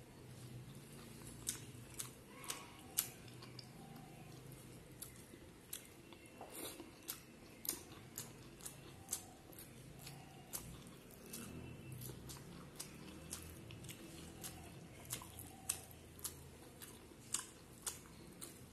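A person chewing egg omelette curry eaten by hand, close to the microphone: wet mouth smacks and sharp clicks come irregularly, about one or two a second.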